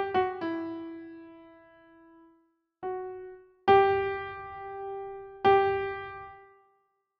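Slow, sparse piano music: a few notes at the start, then single notes about three, four and five and a half seconds in, each ringing out and fading away, with silence near the end.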